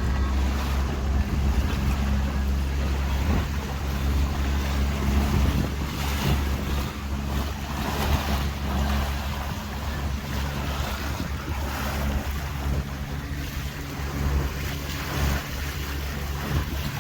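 Tour boat's engine running steadily, with water rushing past the hull and wind buffeting the microphone.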